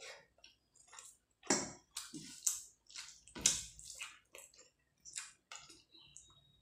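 Close eating sounds of rice and curry eaten by hand: a run of short, wet, squishy chewing and mouth smacks. The loudest come about one and a half, two and a half and three and a half seconds in.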